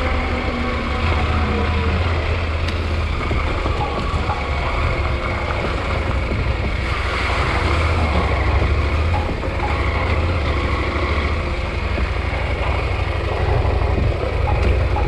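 KTM 890 Adventure R's parallel-twin engine running steadily while riding a dirt trail, with wind and tyre noise over the microphone. The pitch drops a little near the start.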